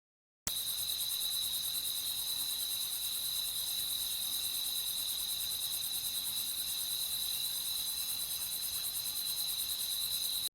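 Crickets chirping in a continuous night chorus: a steady high-pitched trill with a fast pulsing hiss above it, cutting in abruptly about half a second in.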